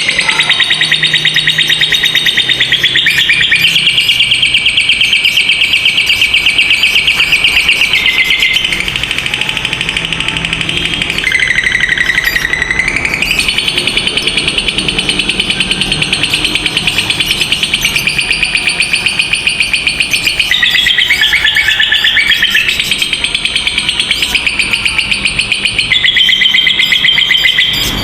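Lovebirds' long 'ngekek': a rapid, high-pitched chattering trill held for many seconds at a time. It breaks or shifts pitch only briefly a few times, with one lower dip near the middle.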